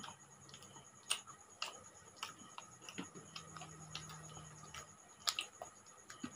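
Faint eating sounds from people eating rice and curry by hand: irregular wet mouth clicks and smacks as they chew, about one or two a second, with a brief low hum in the middle.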